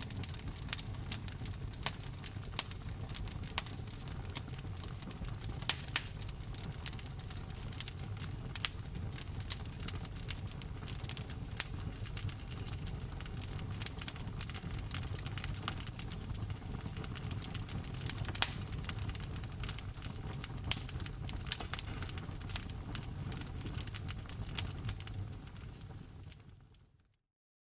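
Wood fire crackling: irregular sharp pops and snaps over a low steady rumble of the burning logs. Near the end it fades out to a brief silence.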